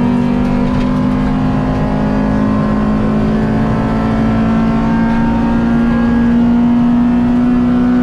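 Rally car's engine heard from inside the cabin, held at high revs in a loud steady note that sags slightly in pitch and climbs back near the end, with tyre and road rumble beneath.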